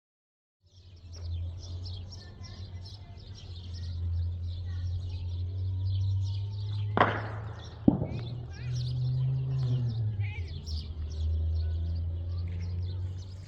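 Small birds chirping in quick repeated notes over a steady low rumble, with two sharp knocks about seven and eight seconds in.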